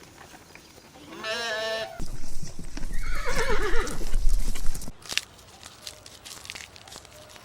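A horse whinnying: a short quavering call about a second in, then a longer wavering call that falls in pitch around three seconds in, followed by a few sharp knocks.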